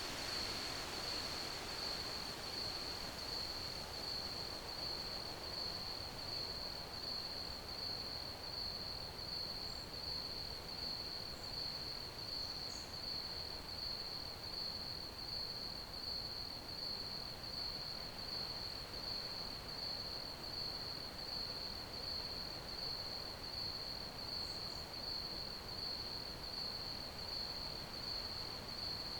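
Crickets chirping in one unbroken, steady high-pitched trill over a soft background hiss.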